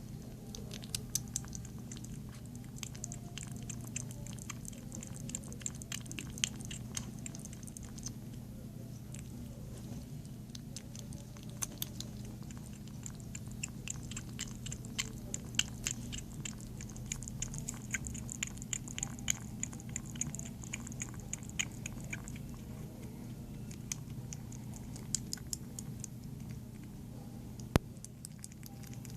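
Kitten eating: quick, irregular chewing and biting clicks, with a steady low hum underneath.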